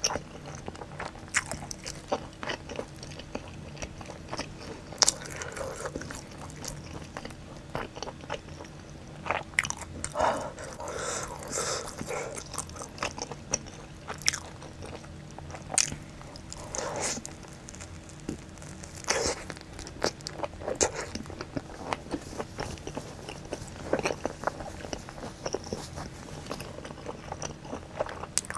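Close-up eating sounds: biting and chewing a folded slice of spicy pizza with its crust, with irregular crisp crunches and wet mouth sounds, busiest about ten seconds in.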